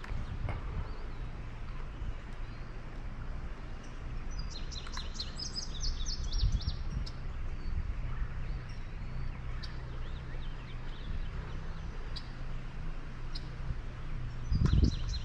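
A bird singing a quick run of high, repeated chirps about five seconds in, with a few single high calls later, over a steady low outdoor rumble.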